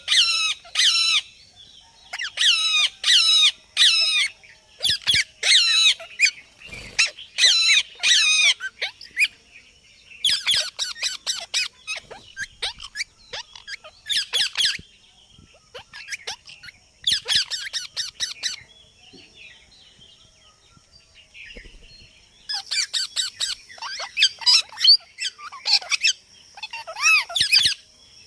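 Parrot squawking in repeated bursts of high, warbling calls, with a few seconds' pause past the middle.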